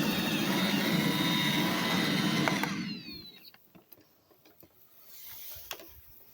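iRobot Roomba 877 robot vacuum running with a steady hum and whine, then shutting off about three seconds in, its motors winding down in falling pitch. A few light clicks follow.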